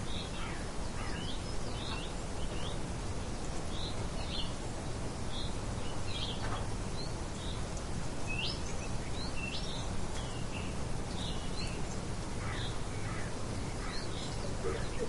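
Birds chirping: many short, high calls scattered throughout, over a steady background hiss.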